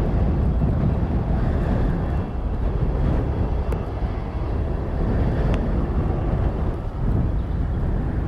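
Steady low rumble of aircraft engines, with wind on the microphone.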